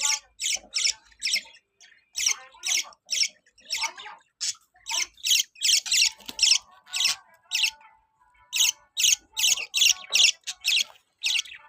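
Budgerigars calling with repeated short, harsh squawks, about two to three a second in runs, with softer, lower chatter between them.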